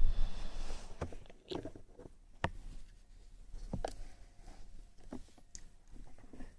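Close-miked ASMR mouth sounds: scattered sharp clicks and smacks a second or so apart, after a short hiss at the start.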